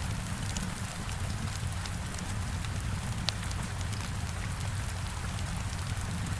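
Heavy rain falling steadily against a window, a dense hiss over a low rumble, with scattered small crackles and pops from a wood fire; one sharper pop about three seconds in.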